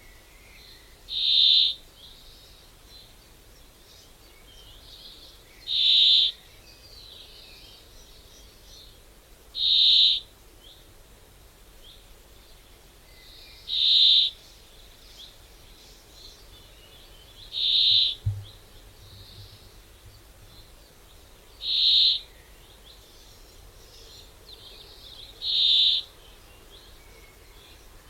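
A bird's single high whistled note, repeated seven times at even intervals of about four seconds, over a faint steady background. One short low thump comes just after the fifth note.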